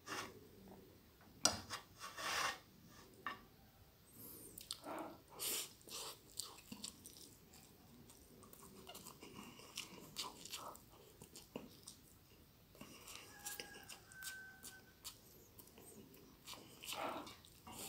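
Close-up chewing of a mouthful of stir-fried glass noodles with goat meat, in irregular short clicks and rustles.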